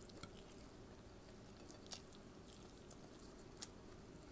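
Quiet chewing of a mouthful of food, with a few faint, soft mouth clicks spaced out over the stretch.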